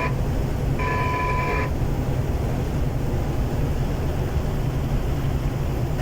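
DR1B diesel train running, a steady low rumble heard from on board. A high steady tone sounds briefly at the start and again for about a second shortly after.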